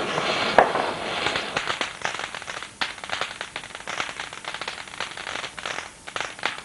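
Crackling firework: a dense run of sharp pops and crackles, with one louder pop about half a second in, thinning out toward the end.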